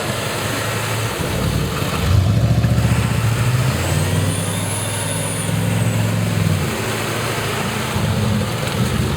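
A truck engine revving, with a louder surge about two seconds in and its pitch shifting up and down, and a faint high whine rising and falling near the middle.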